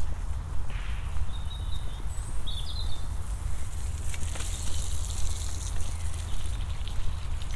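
Walking footsteps outdoors with a low rumble of wind on the microphone; a bird gives a few short chirps a second or two in.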